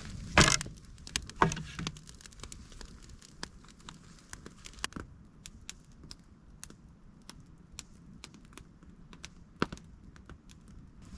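Campfire crackling with scattered small pops, with two louder knocks in the first two seconds.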